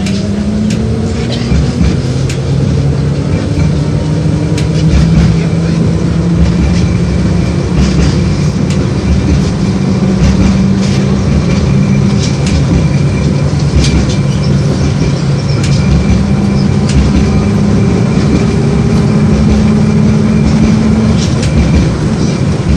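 LVS-86K tram running along the track, heard from inside the car: a motor hum whose pitch climbs in the first couple of seconds, then holds steady over a rumble of wheels on rail, with scattered sharp clicks and rattles.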